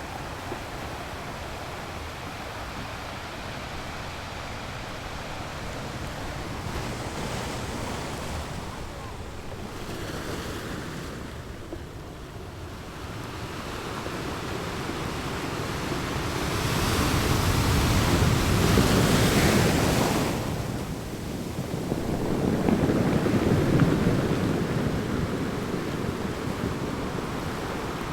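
North Sea surf breaking on a sandy beach: a steady wash of waves that swells to a loud break about two-thirds of the way through, with a second surge shortly after.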